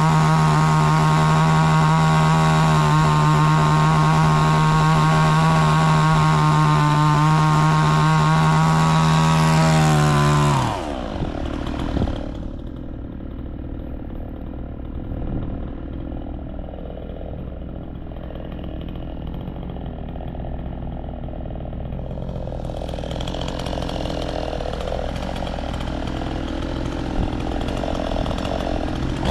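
Chainsaw held at high revs for about ten seconds, then let back to idle, running quieter for most of the rest. Right at the end it revs up again.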